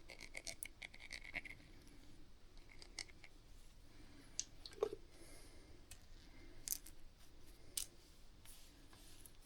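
Scattered light metallic clicks and clinks of small mounting hardware, a nut and washer being handled and fitted onto a bolt, with one sharper clink about five seconds in.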